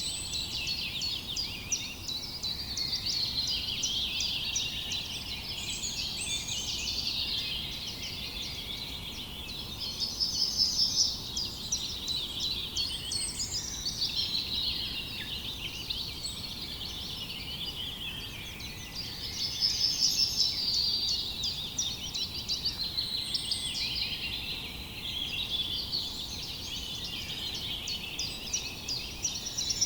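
Many small birds chirping and twittering at once in a dense, continuous chorus, with louder rapid trills about ten seconds in and again about twenty seconds in.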